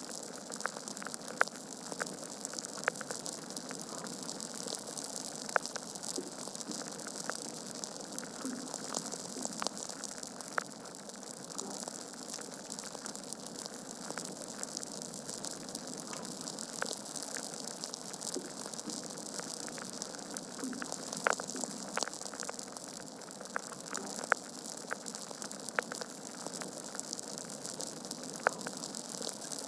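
Wood fire crackling in a fireplace: a steady hiss of burning logs with frequent small snaps and a few louder pops scattered through.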